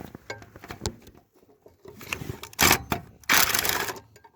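Wrench work on a lawn tractor's engine mount bolt: a few light metallic clicks, then two loud, harsh scraping noises, the first brief and the second about half a second long.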